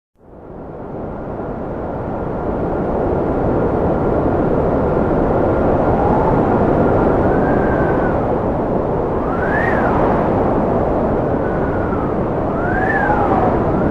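Cold wind blowing hard, fading in from silence just after the start and building over the first few seconds into a steady rush. Thin whistling tones ride on it, one held steady at first, then several that rise and fall in pitch as the gusts come and go.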